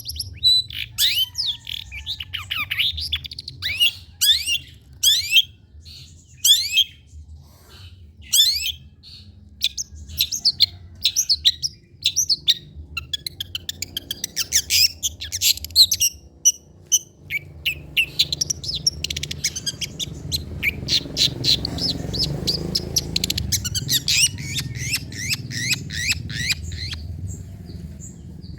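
Long-tailed shrike (cendet) singing: sharp, falling chirps, spaced apart at first, then running into a fast, unbroken chatter from about ten seconds in.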